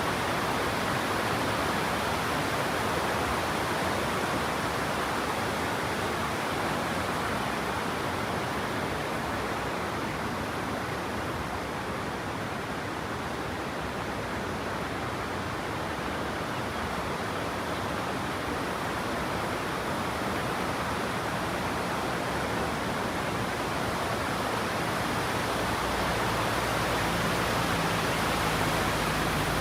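Steady rushing of a waterfall, an even roar of falling water with no change. In the last few seconds a low vehicle engine hum rises beneath it.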